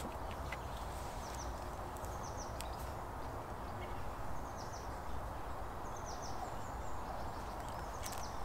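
Small woodland birds calling with short, high, falling chirps in several bursts over a steady low rushing background.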